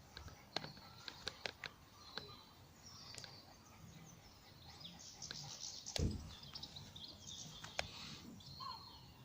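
Faint birdsong, with a few sharp clicks in the first couple of seconds and again near the end, and a single low thump about six seconds in.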